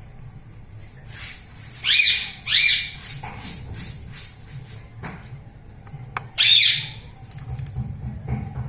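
Indian ringneck parrot squawking: two short, sharp calls rising in pitch about two seconds in, and another loud call about six and a half seconds in.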